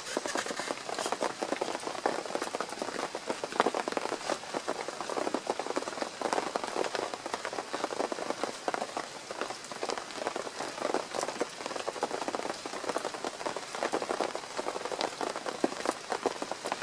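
Steady rain falling, a dense, irregular patter of individual drops over a continuous hiss.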